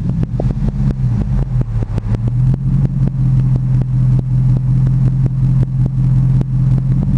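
Exhaust of a Dodge Ram Daytona pickup fitted with a Magnaflow exhaust, settling from a rev into a steady idle with an uneven burbling pulse.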